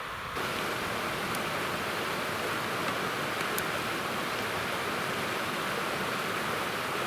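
River rapids rushing: a steady, even rush of fast-flowing water that cuts in sharply just after the start.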